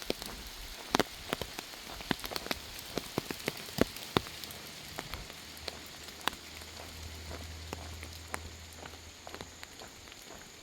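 Light rain, with single drops tapping irregularly on an umbrella above a faint steady patter.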